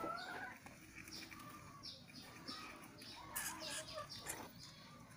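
Bird calls: short clucking notes like those of chickens, with several quick falling chirps and a couple of sharp clicks around three and a half and four and a half seconds in.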